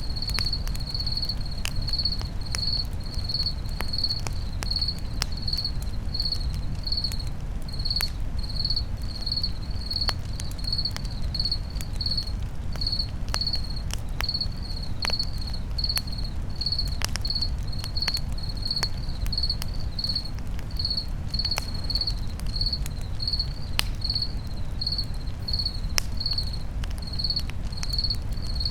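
A cricket chirping steadily, about two to three high chirps a second, over a campfire crackling with irregular sharp snaps and a low steady rumble.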